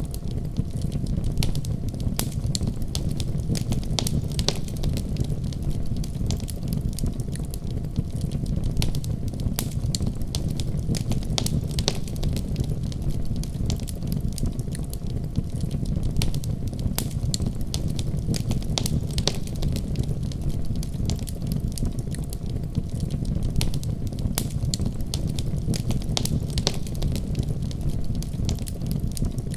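Wood fire burning steadily with a low rumble, scattered with frequent sharp crackles and pops at irregular moments.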